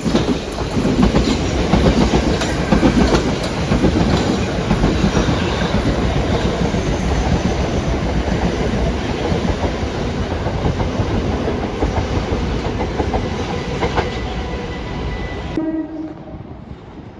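A train running past on the tracks, its wheels clattering over the rail joints. The sound cuts off abruptly near the end.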